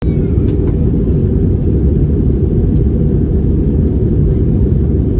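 Airliner cabin noise: a loud, steady low rumble of engines and airflow, cutting in suddenly, with a few faint clicks.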